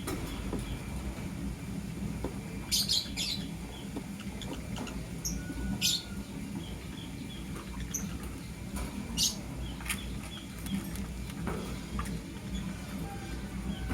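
Lovebirds, a blue opaline and a green masked lovebird, giving short, sharp chirps every few seconds, the loudest about three, six and nine seconds in, with faint scratchy ticks between them over a steady low hum.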